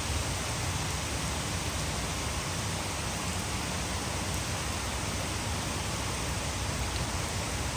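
Heavy rain mixed with water falling over a hydroelectric dam: a steady, even rushing hiss with a deep low rumble underneath, unchanging throughout.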